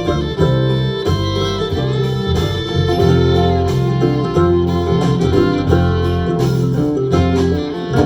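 Live band music without singing: an instrumental passage of guitar and fiddle.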